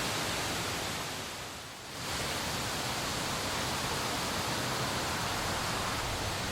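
Steady rain, an even rushing hiss that briefly dips in level about a second and a half in, then comes back.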